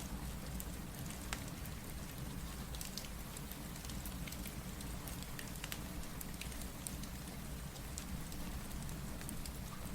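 Steady rain over a low rumble, with scattered sharp crackles and ticks from a wood fire throughout.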